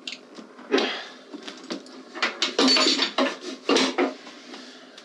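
Metal hardware clinking and clanking: a wrench and nuts being worked onto the saddlebag carrier's mounting bolts, a run of sharp irregular clinks that is busiest in the middle.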